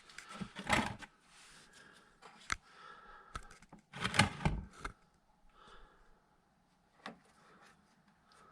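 A tight radiator drain tap being worked by hand: a few sharp clicks and scrapes, with two louder rustling bursts about a second in and about four seconds in.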